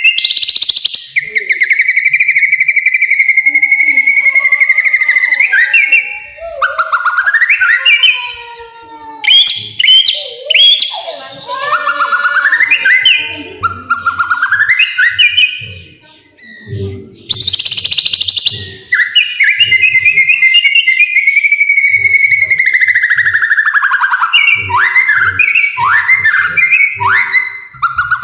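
White-rumped shama chick begging loudly while being hand-fed: long buzzy calls held near one pitch for several seconds, broken by quick rising notes.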